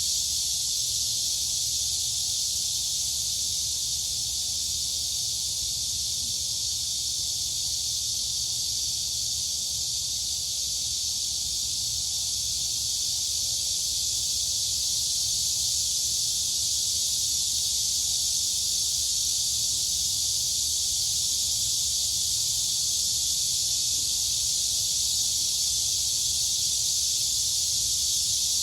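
A dense, unbroken chorus of crickets and cicadas: a steady high-pitched shrill buzz, with a faint low rumble underneath.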